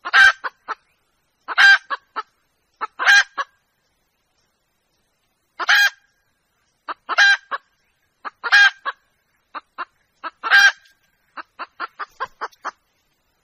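Young red junglefowl hen calling to a rooster: a loud cackling call repeated about every second and a half, each followed by two or three short clipped notes, ending in a quick run of short notes.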